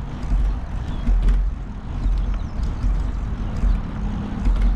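Wind rumbling on a bike-mounted GoPro's microphone while riding a bicycle, with tyre noise and scattered clicks and rattles from the bike.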